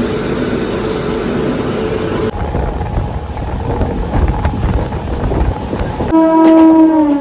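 Indian local train running, a rumbling and rattling noise, then about six seconds in a train horn sounds loudly and steadily, its pitch sagging slightly as it ends.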